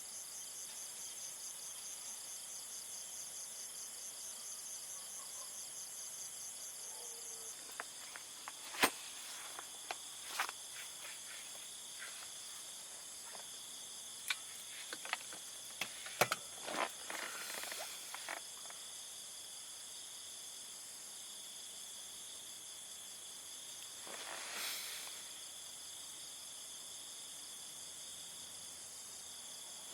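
Crickets and other night insects chirping in a steady high chorus. A scatter of sharp clicks and knocks falls in the middle, and a short hiss comes near the end.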